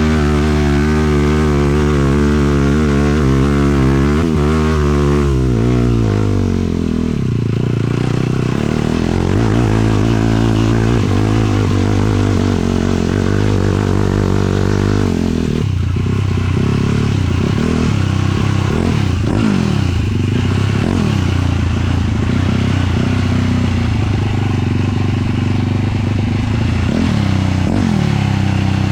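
A 450cc single-cylinder sport quad engine running under throttle during a ride. The revs rise and fall, drop off about six seconds in, and then pick up and vary again.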